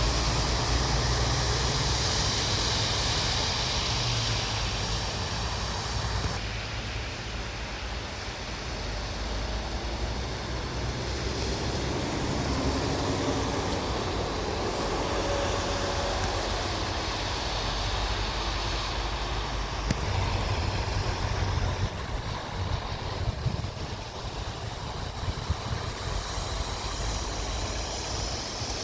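Heavy truck engines running with a steady low rumble and road and wind noise. The sound changes abruptly about six seconds in and again around twenty seconds in.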